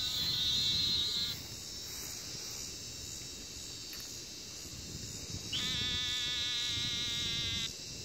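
Two rapid, buzzy trilled calls from an unseen animal, the one the searchers take for crawfish making a mating call. The first call ends about a second and a half in; the second lasts about two seconds near the end. A steady high hiss runs underneath.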